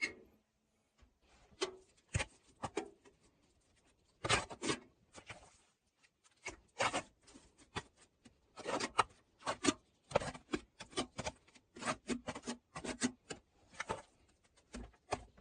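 Irregular series of short scrapes and rubs as materials are handled by hand, echoing slightly in a small room.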